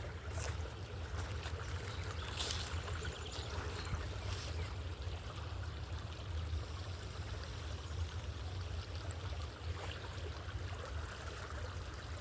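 Steady running water of a stream, an even rushing hiss under a constant low rumble, with a few brief rustles.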